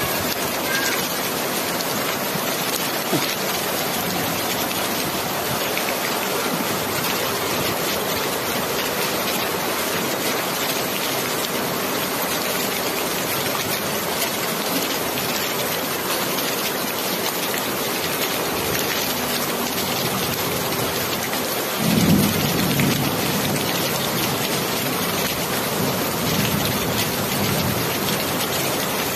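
Steady, even rain falling. About 22 s in a low rumble of thunder swells up and fades away over a few seconds.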